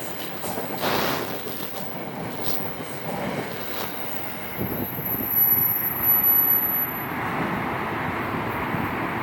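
A train rolling past on the rails, with a thin high wheel squeal for about two seconds midway through.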